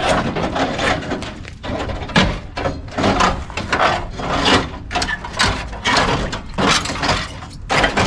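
Irregular clattering and rattling from hands-on mechanical work, in uneven bursts.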